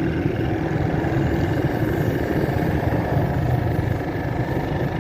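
Steady vehicle engine and road noise, a continuous low rumble with no distinct events.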